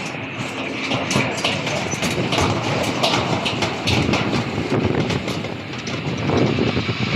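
Aircraft engines, a loud rumble with a crackling texture, and a high hiss building near the end.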